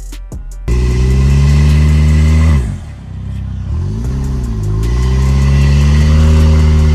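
A 2020 Volkswagen Tiguan's turbocharged four-cylinder engine revving through a straight-piped exhaust. It is held at high revs, drops back about 2.7 seconds in, gets a quick blip near the middle, then climbs and is held high again. Brief drum-beat music plays before the engine comes in.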